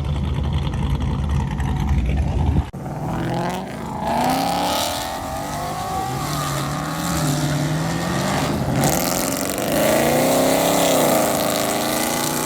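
A car's engine rumbling at a deep idle, then, after a sudden cut a few seconds in, an engine being revved over and over, its pitch climbing and falling.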